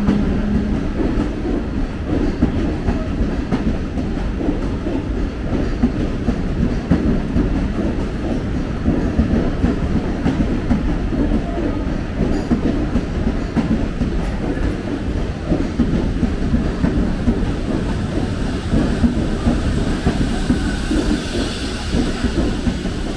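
Mumbai suburban electric local train running past the platform: a loud, steady rumble and clatter of steel wheels on the rails as coach after coach goes by. A steady low tone fades out in the first second.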